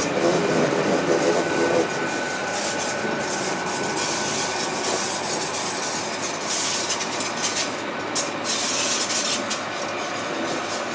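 Hitachi Class 810 train coaches rolling slowly past, wheels running and rubbing on the rails with a steady rumble. Several spells of high-pitched hissing and scraping from the wheels come and go. A brief squealing tone fades out about two seconds in.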